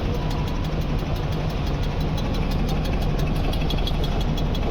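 Panasonic washing machine running with a low hum and a fast, even ticking: a wire holder that has come out of its groove is striking a metal part of the assembly.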